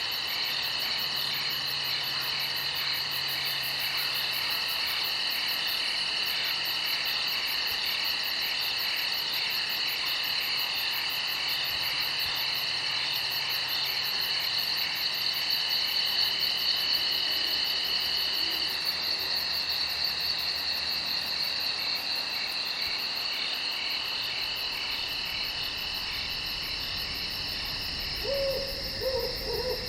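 Crickets chirping in a dense, steady night chorus of pulsing high trills. A few short, falling low calls come near the end.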